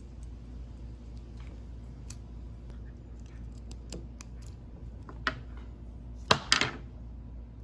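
Light clicks and taps of a small treble hook and lure hardware being handled and fitted onto a handmade lure, with a sharp click a little past halfway and two louder clicks close together near the end.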